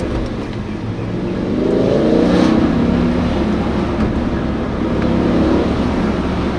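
BMW M5 E60's V10 engine accelerating hard, its pitch climbing, dropping at a gear change and climbing again.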